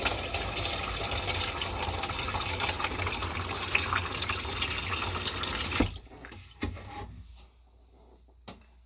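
Water running steadily from a tap, shut off abruptly about six seconds in; a few light knocks follow.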